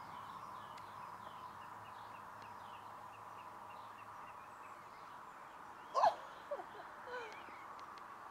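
Small birds chirping repeatedly in the background of a garden. About six seconds in comes a brief, louder sliding call, then two shorter ones.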